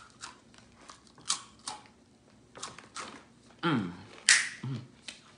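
Chewing crunchy snack chips close to the microphone: a string of separate crunches, with a short hum from the eater about four seconds in.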